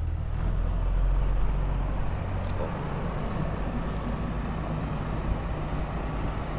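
Deutz-Fahr 6130 tractor's diesel engine running as the tractor is driven up, a steady low hum that is a little louder in the first couple of seconds.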